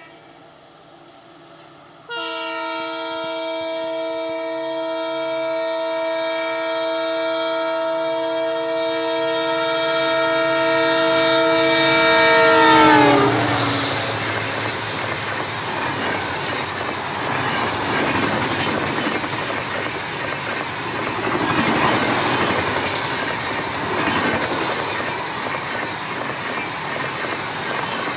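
Indian Railways WDP4D diesel locomotive's horn sounding in one long steady blast of about eleven seconds, its pitch dropping sharply as the locomotive passes. The passenger coaches then rush past with a steady roar of wheels on rail and rhythmic clickety-clack.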